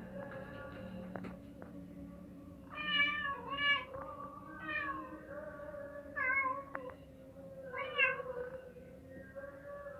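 Mother cat meowing, five short calls spaced a second or two apart, each rising and falling in pitch.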